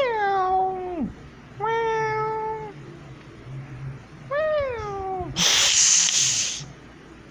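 A person imitating a cat with his voice: three drawn-out meows that rise and then fall in pitch, followed by a loud hiss lasting about a second.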